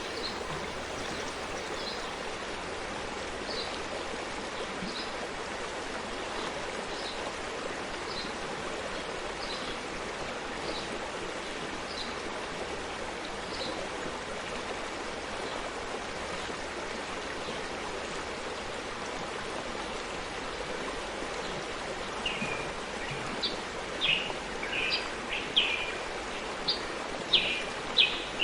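Forest stream flowing steadily. A bird gives short, faint chirps about once a second in the first half, and louder chirps come thick and fast over the last several seconds.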